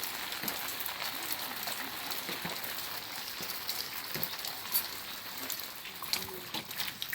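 Steady rain falling, a constant hiss dotted with the sharp ticks of individual drops striking a surface.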